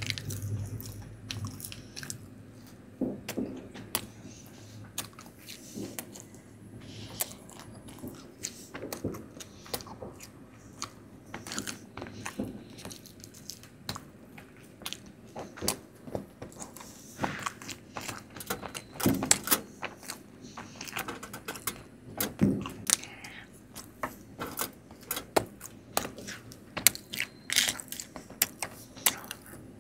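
Close-miked eating sounds: a person chewing Indian sweets, with irregular mouth clicks and smacks throughout.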